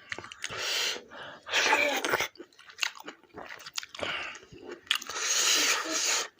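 Close-up eating sounds: chewing with many wet mouth clicks, broken by three loud hissing breaths through the mouth.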